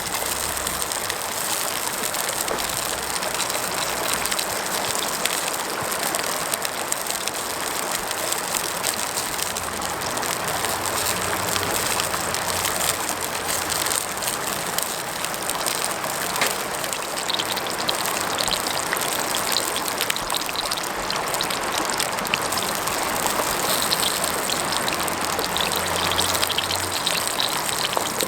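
Mountain stream rushing steadily, with occasional light crackles on top.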